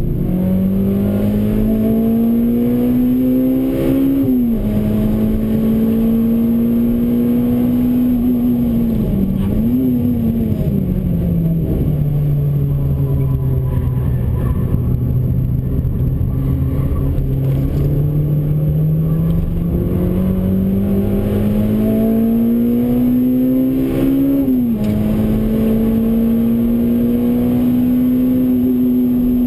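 Honda Civic Type R EP3's K20 2.0-litre four-cylinder engine heard from inside the cabin while lapping a track: the revs climb, drop sharply at an upshift about four seconds in, dip and blip briefly near ten seconds, then run lower and steady through a corner before climbing again to another gear change near the end.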